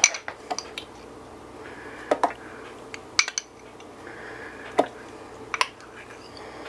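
A metal spoon clinking and tapping against a dish as chicken fat is spooned out to measure it: a handful of short, sharp clinks at irregular intervals over a faint steady hum.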